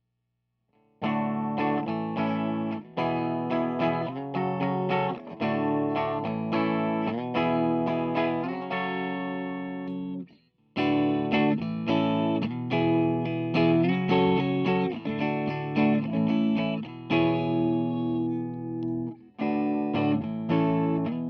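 Fano Omnis JM6 electric guitar played through effects pedals: chords strummed in a steady run, starting about a second in, with a short stop a little before halfway before the playing resumes.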